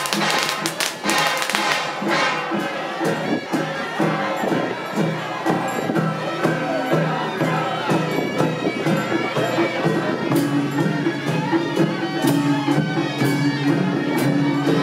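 Traditional temple festival music: a shrill reed horn, suona-like, plays a held melody over percussion, with sharp clashing strokes in the first two seconds.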